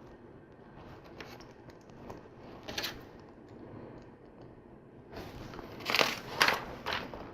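Small plastic LEGO pieces being handled and pressed together, light clicks and rustling, with a louder burst of rustling and clicking about five seconds in.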